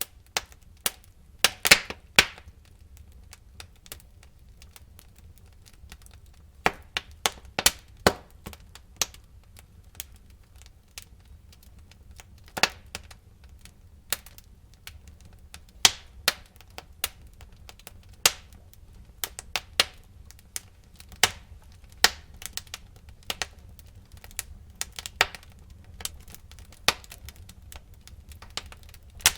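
Wood fire burning in a fireplace: irregular sharp crackles and pops over a low, steady rumble of flame, with a quick cluster of louder cracks about two seconds in.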